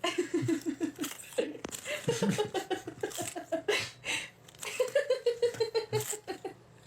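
A person laughing in three rapid bouts of short ha-ha pulses.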